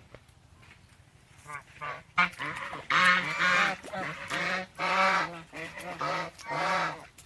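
Swans honking: a quiet first second or so, then a run of repeated nasal honks, several birds calling one after another.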